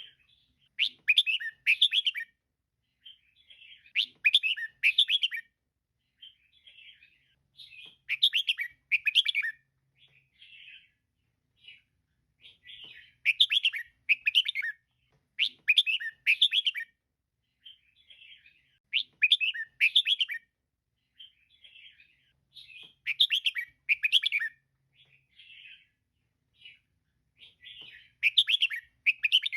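Female red-whiskered bulbul calling: bright chirpy phrases about a second long, repeating every three to four seconds, with softer chirps in between.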